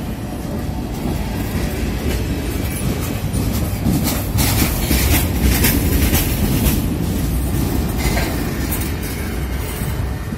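Freight train of covered hopper grain cars rolling past close by, with a steady deep rumble of wheels on rail. A louder stretch of clattering comes from about four to seven seconds in.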